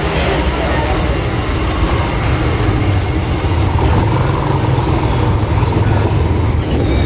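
Steady low rumble of a motor vehicle running along with road noise.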